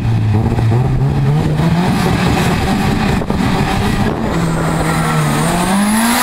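Two drag cars at the start line with their engines running and blipping. From about five seconds in, one engine's pitch rises as it is revved, with a thin high whine climbing along with it.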